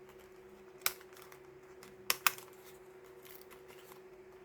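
Three short, sharp clicks of small items being handled on a desk, one about a second in and two close together just after two seconds, over a faint steady hum.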